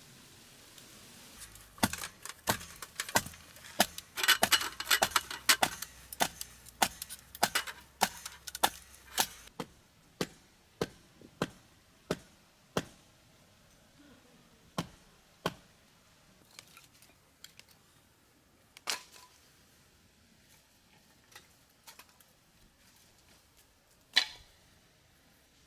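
A series of sharp clicks and knocks. They are dense and irregular for several seconds, then come more sparsely, with a few single louder knocks near the end.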